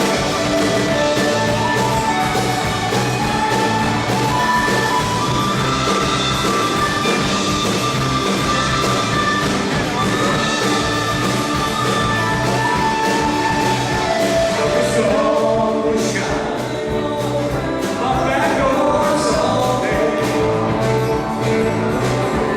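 Live rock band playing, with sung vocals over the instruments, in a steady loud jam.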